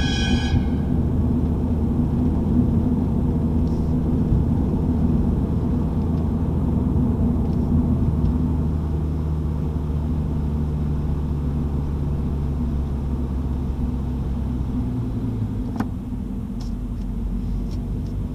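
Mini John Cooper Works GP's turbocharged four-cylinder engine running at low, steady revs, heard from inside the car as it rolls slowly along. About fifteen seconds in the revs drop as the car slows.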